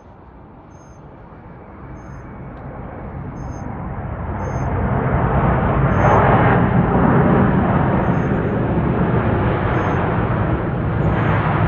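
Jet engine noise from an Airbus A350-900's Rolls-Royce Trent XWB engines as it lands, growing louder over about five seconds, then holding a loud, steady rumble.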